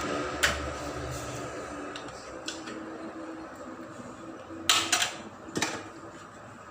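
Kitchen utensils and containers knocking and clinking against each other while food is being layered into a pot: a few separate sharp knocks, the loudest cluster about five seconds in.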